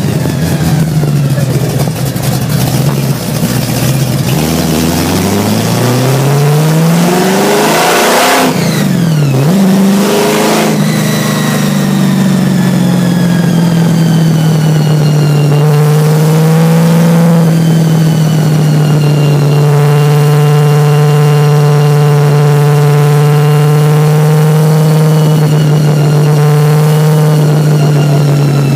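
Supercharged 427 big-block Chevy V8 in a Ford Anglia gasser, heard from inside the car: it pulls with rising pitch, falls sharply at a gear change about nine seconds in, pulls again, then settles into a steady cruise.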